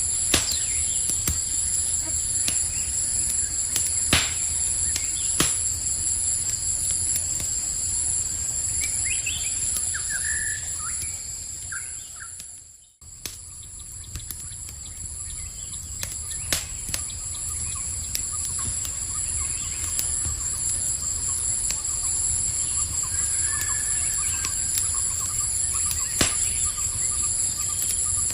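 Campfire crackling with scattered sharp pops over a steady chorus of night insects, with a few short bird chirps around ten seconds in. The sound dips out briefly about thirteen seconds in and comes back.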